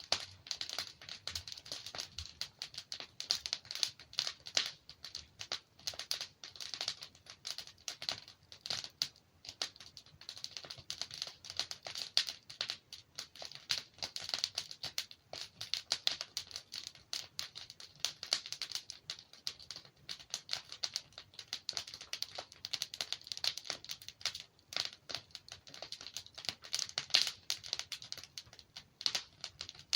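Wood fire in a fireplace crackling and popping steadily: a dense stream of small irregular snaps with a few louder pops.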